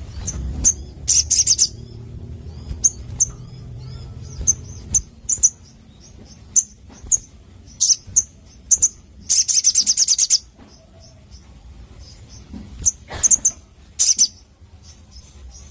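Sogon (little spiderhunter) calling: short, high, sharp chirps at uneven intervals, with a fast rattling run of notes about nine seconds in and shorter runs near the start and near the end. A low rumble sits underneath for the first few seconds.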